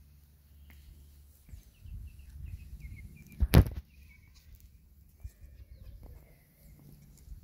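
Small birds chirping in short repeated calls, over a low rumble. A single loud thump about halfway through is the loudest sound.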